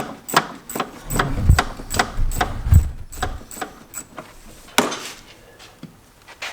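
Ratchet wrench clicking in a steady rhythm, about three clicks a second, as a fastener on the air-conditioning compressor is worked loose, then a single sharper metallic knock near five seconds in.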